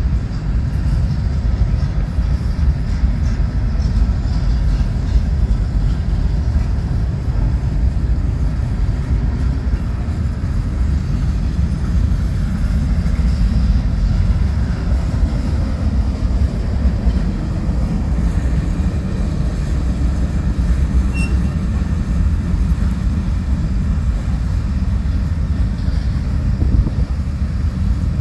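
Mixed freight train cars (boxcars, tank car, covered hoppers and gondolas) rolling past on steel wheels, a steady low rumble of wheels on rail.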